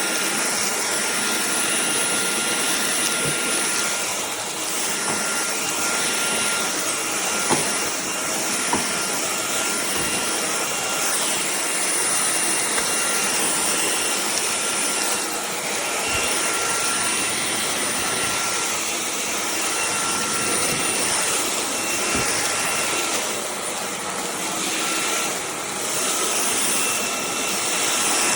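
Cordless stick vacuum running steadily, a loud rushing of air with a thin high whine over it. The level swells and dips a little as it is worked, with a couple of faint knocks.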